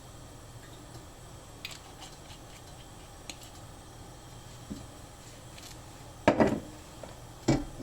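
Kitchen utensils clinking and tapping a few times, then two louder clattering knocks a little over a second apart near the end.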